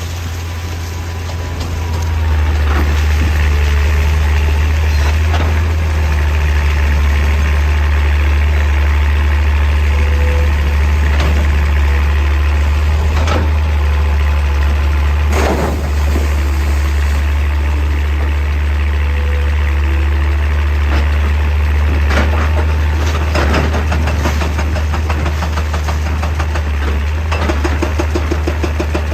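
Hydraulic excavator's diesel engine running with a steady low drone that gets louder about two seconds in. A few scattered knocks and clanks are heard at irregular intervals.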